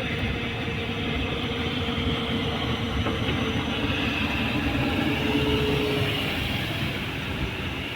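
Boat engine running steadily, a continuous rumble with a faint steady hum.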